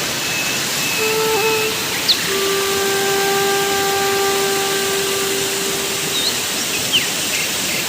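Background flute music holding one long note through the middle, over a steady hiss of rushing noise.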